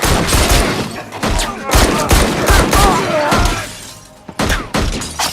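Loud film-soundtrack music mixed with a rapid run of sharp impacts and crashes. It drops briefly about four seconds in, then several more hits follow.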